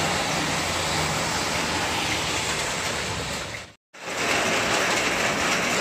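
Steady hiss of heavy rain, mixed with the swish of tyres on the flooded road, with a brief dropout to silence about two-thirds of the way through.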